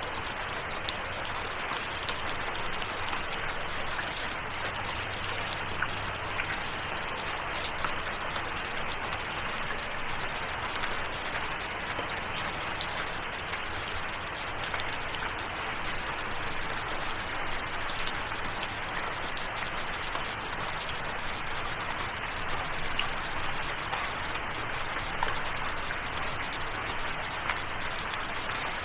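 Steady rain falling, a constant hiss dotted with many individual drops tapping sharply.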